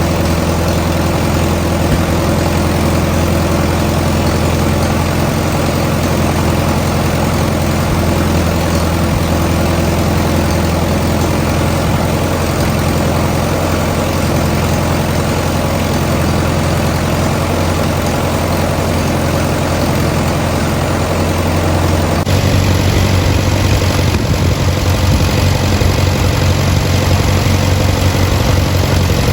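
An engine idling steadily. About 22 seconds in the sound shifts, a little louder and deeper.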